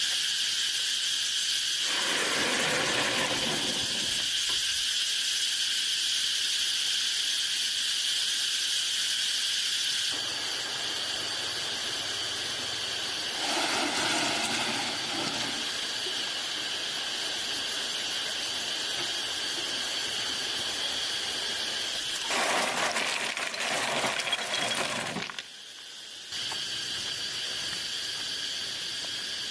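A steady chorus of insects chirping, over the hiss of running stream water. It shifts a few times as the scene cuts, with a few short louder stretches of water or handling noise in between.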